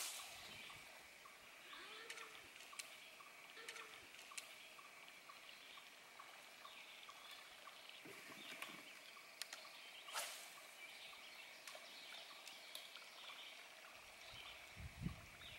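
Near silence with faint bird chirps, a steady thin high tone, and two sharp clicks, one right at the start and one about ten seconds in.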